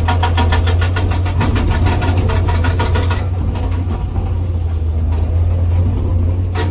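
Hydraulic rock breaker on a Komatsu PC200 excavator hammering hard rock in rapid, even blows. It stops about three seconds in and starts again near the end, while the excavator's diesel engine runs steadily throughout.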